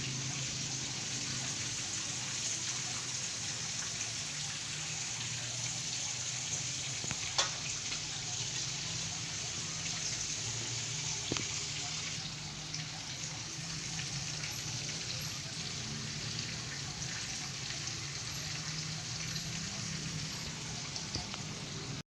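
Chicken pieces frying in hot oil: a steady sizzle with a couple of sharp pops about seven and eleven seconds in.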